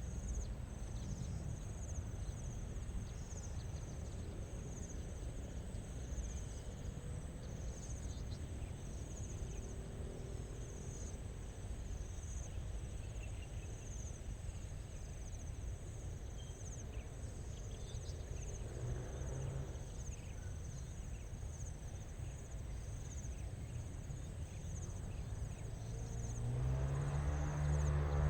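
Insects chirping steadily in a grassy meadow, a high pulsing trill repeating about once a second, over a low rumbling background. Near the end a low, drawn-out call rises above it.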